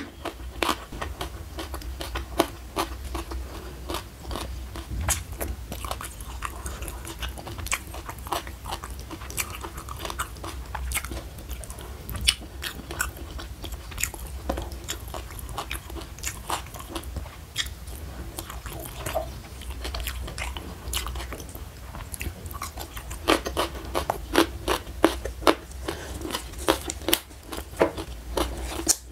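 Close-miked mouth sounds of a person eating: crunching and chewing with many sharp wet clicks and smacks, irregular and continuous, growing denser and louder near the end.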